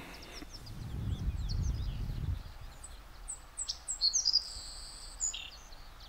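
Small birds chirping, short high calls and a held whistled note, mostly in the second half. A low rumble in the first couple of seconds.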